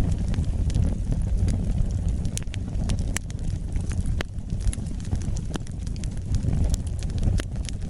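Wood fire burning: a low, steady rumble of flames with frequent sharp, irregular crackles and pops.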